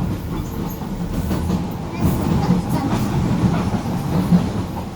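Docklands Light Railway train running along the track, with a steady rumble from its wheels and running gear.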